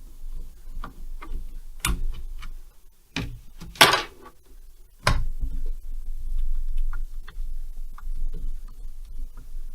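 Metal parts and tools being handled during a chainsaw strip-down: scattered light clinks and knocks, the loudest knock about four seconds in.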